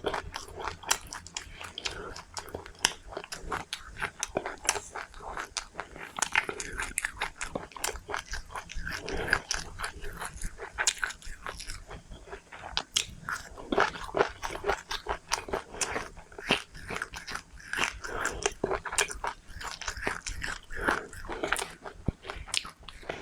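A person chewing and biting crunchy seeds, with many quick, irregular crunches.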